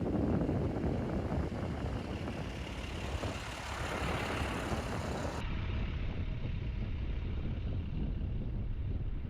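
Steady outdoor noise of a vehicle running, with no clear tones; the sound changes abruptly about five seconds in, losing its highest part.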